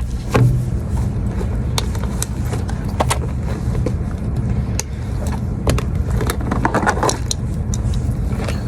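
Steady low rumble of a car heard from inside the cabin, with scattered clicks and rattles.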